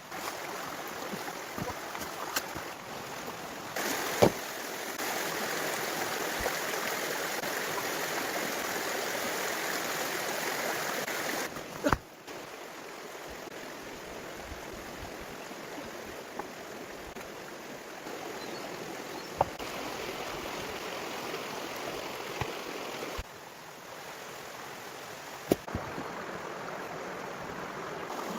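Steady rush of running water, changing in loudness and tone a few times, with a few sharp knocks or clicks over it.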